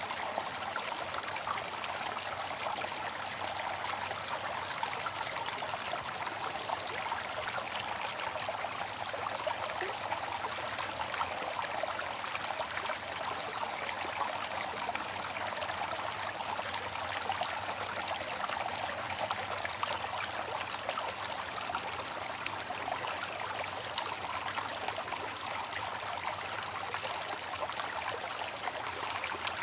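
Water fountain running, a steady splashing and trickling of falling water.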